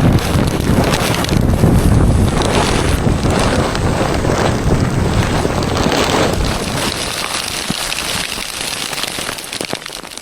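Loud wind buffeting the microphone, a heavy rushing noise that fades away over the last few seconds.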